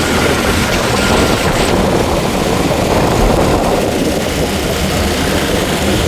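Motorcycle ridden at steady speed: a steady engine hum under a dense rush of wind and road noise.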